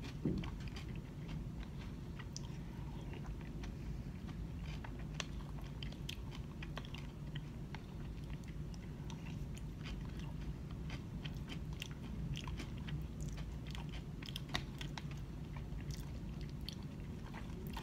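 Quiet close-up chewing of a spoonful of acai bowl, with scattered small clicks and scrapes of a plastic spoon in a plastic cup, over a steady low room hum.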